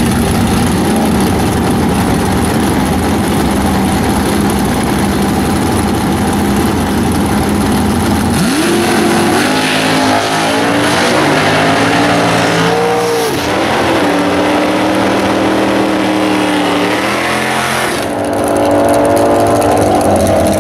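Small-block Mopar V8 with W7 heads in a Plymouth Duster drag car, running steadily at the starting line, then launching about eight seconds in with a sharp rise in revs. The revs climb and drop back in steps as it shifts through the gears on the way down the strip.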